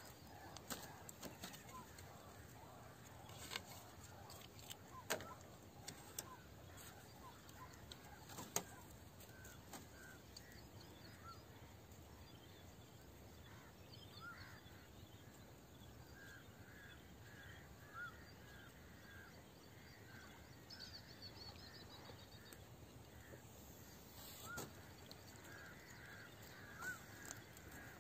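Near silence: quiet outdoor ambience with faint birds calling, including runs of short repeated chirps. A few sharp clicks come in the first nine seconds.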